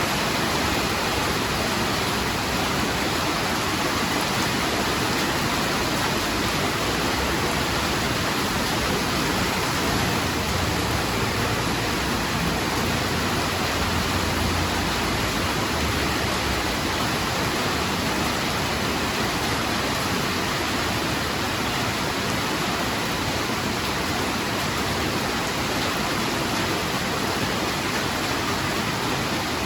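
Heavy rain falling steadily in an even hiss. A low rumble swells briefly around the middle.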